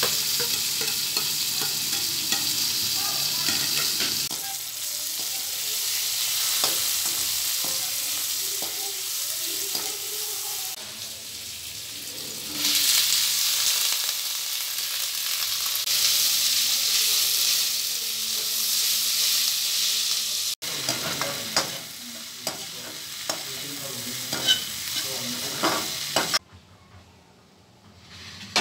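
Food sizzling in hot oil in a wok as chopped vegetables are tipped in and stirred, with spatula scrapes and clinks. The sizzle swells again about halfway through as more pieces go in, then cuts off shortly before the end.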